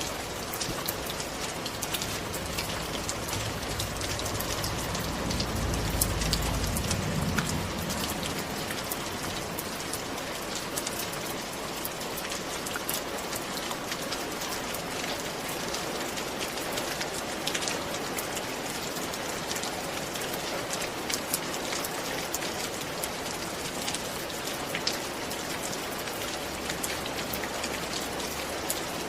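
Steady rain falling, with many separate drops ticking through the hiss. A low rumble swells a few seconds in and fades again.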